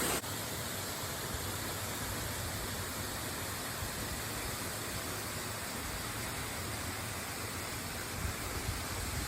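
Waterfall rushing as a steady, even noise, Horsetail Falls' 176-foot plunge. A few low bumps come near the end.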